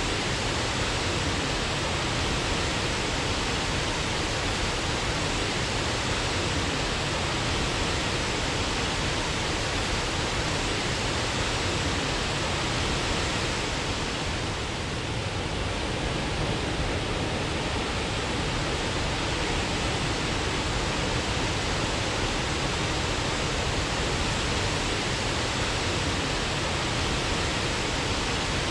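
Waterfall: water pouring in a steady, even rush, a little softer for a moment about halfway through.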